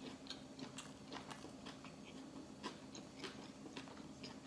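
Close-miked chewing of a mouthful of sushi roll: soft, irregular mouth clicks and smacks, several a second.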